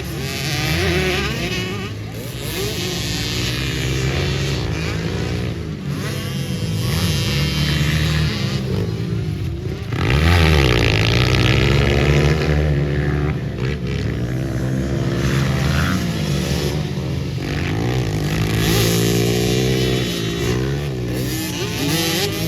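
Several pit bikes racing, their small engines revving up and down in overlapping waves as riders accelerate and back off. One gets louder about ten seconds in.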